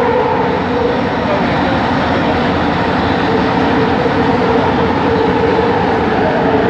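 Kelana Jaya Line train car in motion, heard from inside: steady running noise with the traction motors' whine as steady tones, one tone shifting up slightly near the end.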